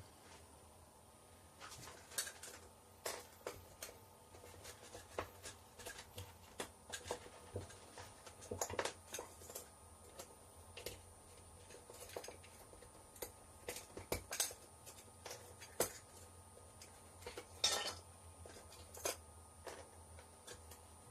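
Scattered light clicks and clinks of small hard pieces being picked up and set down by hand, irregular and a few louder than the rest, over a faint steady hum.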